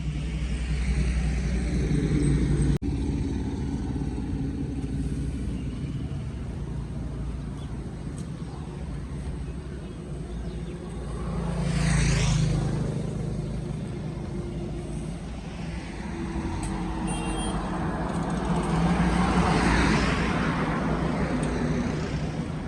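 Motor vehicles passing over a steady low rumble. One passes close about halfway through, rising and falling quickly, and another swells and fades near the end.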